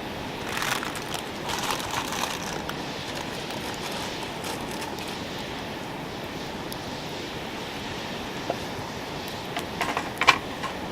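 Metal cooking utensil clinking and scraping against a pan while fried rice is cooked over a campfire, in two short flurries: one near the start and one near the end with a single sharp, loud clink. A steady rushing noise runs underneath.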